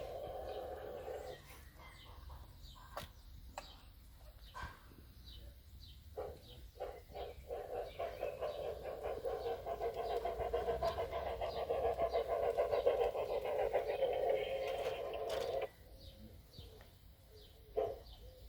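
Steam-locomotive sound from the Massoth XLS sound decoder in an LGB Forney model locomotive, a rapid chuffing played through its small speaker, with scattered sharp clicks. The chuffing fades about a second and a half in, picks up again around six seconds, and stops abruptly near the end, where a few slower single chuffs follow.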